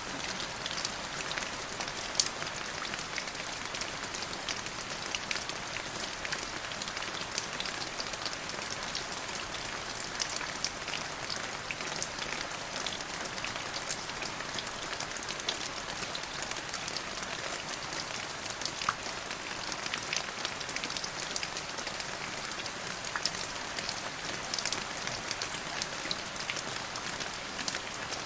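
Steady rain falling in a forest, a constant hiss with many individual drops ticking sharply close by.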